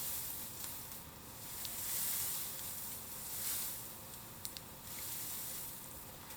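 Bamboo burning in an open bonfire: a steady hiss that swells and fades, with a few sharp crackling pops, two of them close together about halfway through.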